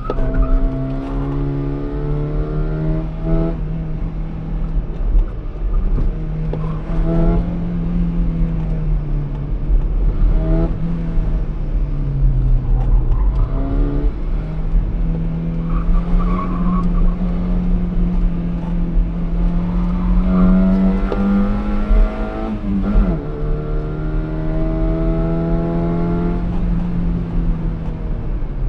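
Fiat X1/9's mid-mounted four-cylinder engine running hard under racing load, heard from inside the cabin. Its pitch climbs through each gear and drops sharply at the upshifts, repeatedly.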